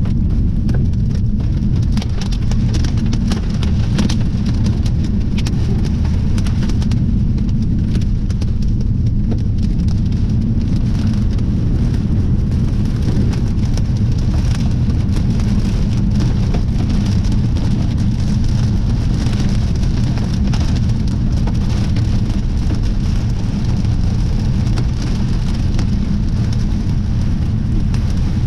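Thunderstorm downpour: heavy rain beating on a surface with many sharp individual impacts, over a loud, steady low rumble of strong wind buffeting the microphone.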